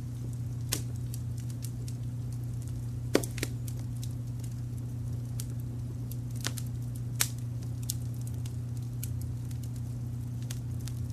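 Wood fire crackling, with scattered sharp pops (the loudest a little after three seconds in and again after seven), over a steady low rumble of brown noise.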